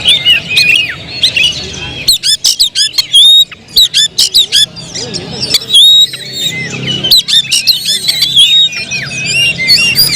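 Oriental magpie-robin (kacer) singing a loud, fast, varied song of rapid whistled notes and glides mixed with harsh chattering notes.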